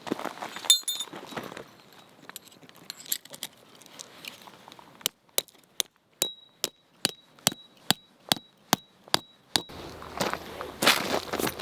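A sharp clink under a second in, then a steady run of about a dozen light clinks, roughly two and a half a second, each with a brief high ring. Near the end, rustling.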